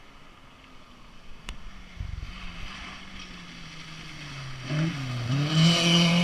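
Rally car's engine approaching from a distance, growing steadily louder, with its pitch dipping and climbing again about five seconds in, as at a gear change or lift. A single click comes about one and a half seconds in.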